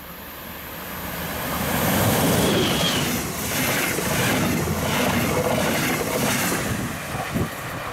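DB class 146 electric locomotive and double-deck regional coaches passing close by. The sound builds as the train approaches and is loudest about two seconds in as the locomotive goes past. The coaches then roll by with a regular rise and fall as each bogie passes over the rails.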